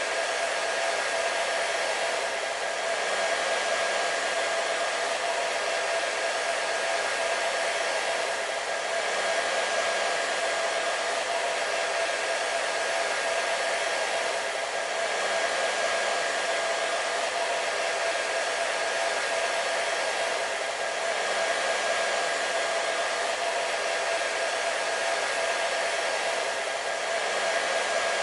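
Hair dryer running steadily: a continuous airy rush with a steady motor whine held on one pitch, swelling and easing slightly every few seconds.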